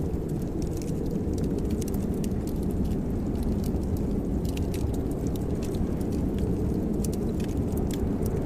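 Wood fire in a fireplace crackling, with scattered sharp little pops over a steady low rumble.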